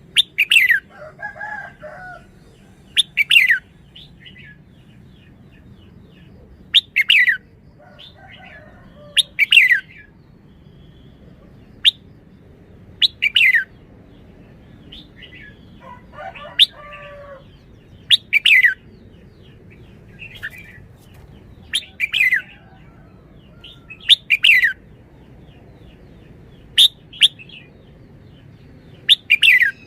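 Red-whiskered bulbul calling: loud, sharp chirps that fall in pitch, repeated every two to three seconds, with a few shorter, lower, warbling phrases in between, about a second in, around eight seconds in and around sixteen seconds in.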